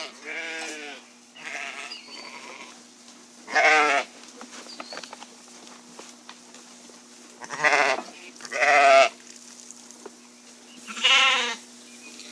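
Sheep bleating: about six separate quavering calls, the loudest coming at roughly 4, 8, 9 and 11 seconds, over a faint steady hum.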